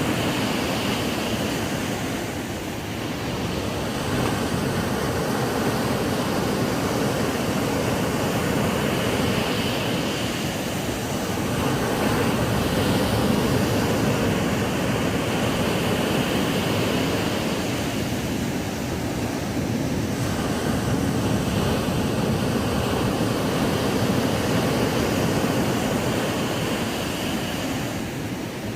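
Ocean waves breaking and washing up a sandy beach, a continuous surf with slow swells every few seconds.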